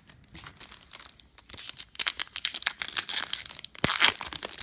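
Plastic trading-card pack wrapper crinkling and tearing as a pack is handled and opened, faint at first and much louder and busier from about two seconds in.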